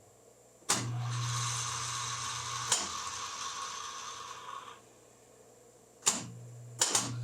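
Metal lathe switched on with a click and running with its threading gears still engaged: a steady motor and gear-train hum. It is switched off about four and a half seconds in, then switched on again with a click shortly before the end.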